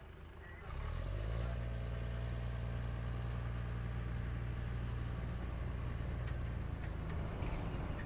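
Diesel cane-train locomotive engine running with a steady, deep drone that cuts in suddenly just under a second in.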